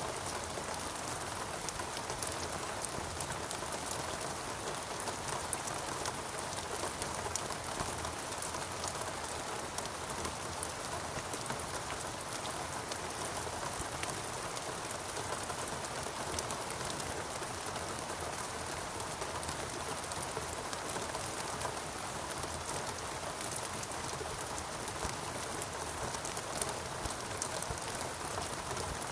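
Steady rainfall, a continuous hiss of rain with many small drops pattering on a surface.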